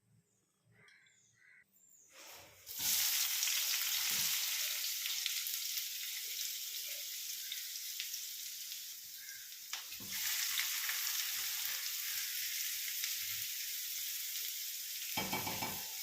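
Sliced onions sizzling steadily in hot coconut oil in a pan, the sizzle starting suddenly a couple of seconds in and surging again about ten seconds in. A short stirring or scraping sound near the end.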